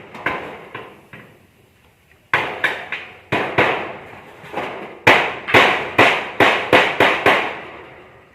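A run of hammer blows in building work: a few scattered strikes, then a steady series at about two to three a second, loudest in the second half, each with a short ringing tail.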